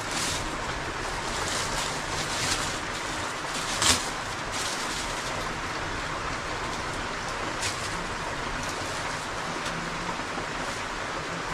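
Steady rain falling, with scattered louder drips and one sharper tap about four seconds in.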